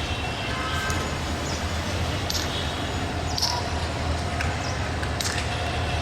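Diesel train rumbling steadily, a low hum under general outdoor noise, with scattered sharp clicks and a few short high chirps.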